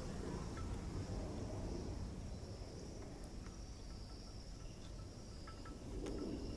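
Faint steady high-pitched chirring over a low background rumble, with a few light ticks.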